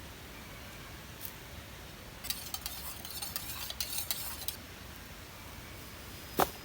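Light clicks and clinks, as of small objects being handled, for about two seconds, then a single sharp knock near the end.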